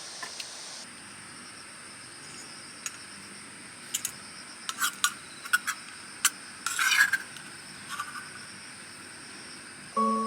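Steady high-pitched insect chirring with scattered light clicks and clinks, and a short rustling scrape about seven seconds in. Music notes begin at the very end.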